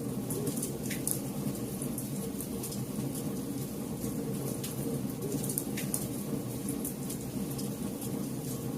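Campfire burning: a steady low rumble of flames with irregular sharp crackles and pops from the wood.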